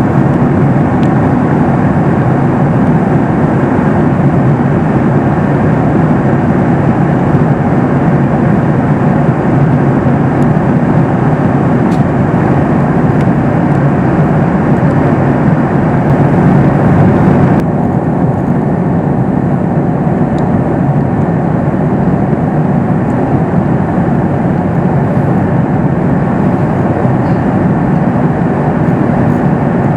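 Steady cabin noise of a Boeing 737 MAX 8 airliner in flight: the rush of air and the hum of its CFM LEAP-1B engines. About two-thirds of the way through, the noise abruptly turns slightly quieter and duller.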